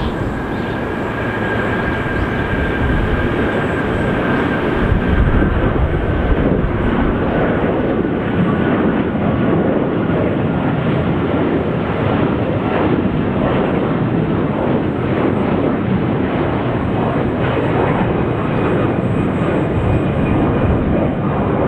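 Jet airliner engines running loud and steady, with a faint high whine that slowly drops in pitch over the first few seconds.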